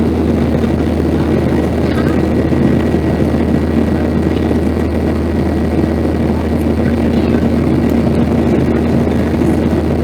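Cabin noise of a Boeing 737-800 heard from a window seat: a steady, loud rush of jet engine and airflow noise, with a constant low hum and a faint high whine running through it.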